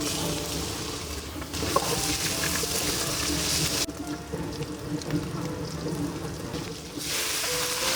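Food sizzling as it is fried and stirred in a hot pan, the sizzle growing louder twice, once about one and a half seconds in and again near the end.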